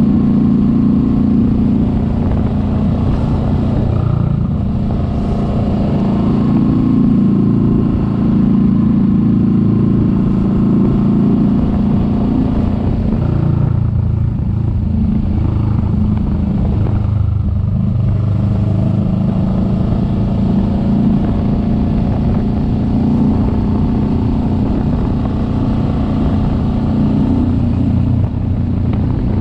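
Kawasaki Vulcan S 650's parallel-twin engine running as the motorcycle rides along, its pitch rising and falling with the throttle. The engine note drops off briefly about 14 and 17 seconds in, then picks up again.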